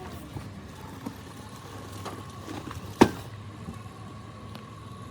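A single sharp knock about three seconds in, over a steady low hum with a faint steady whine and a few light clicks.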